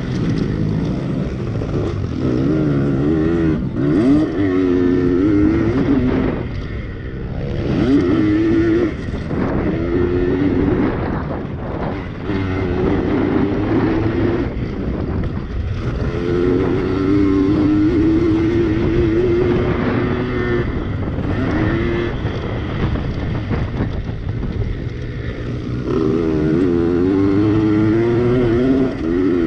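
Yamaha PW80 two-stroke pit bike engines racing, revving up and easing off again and again, with the pitch rising and falling throughout.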